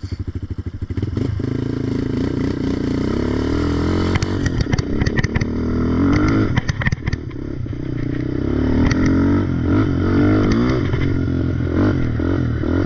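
Yamaha Raptor ATV engine with an aftermarket exhaust, chugging slowly at first, then pulling away up a hill with the revs rising and falling over and over.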